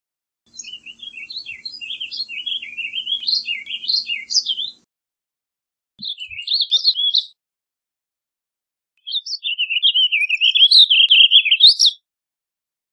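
Warbling vireo singing its warbling song: three phrases of quick, rambling up-and-down notes, a long one, a short one about six seconds in, and another long one from about nine seconds in.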